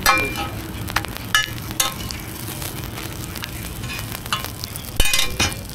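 Roti frying in oil on a large flat steel griddle, sizzling steadily, with a metal spatula clinking and scraping against the griddle a few times.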